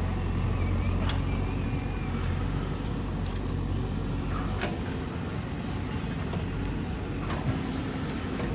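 Diesel engine of a JCB 3DX backhoe loader running steadily under work, with a few sharp metallic knocks from the digging gear.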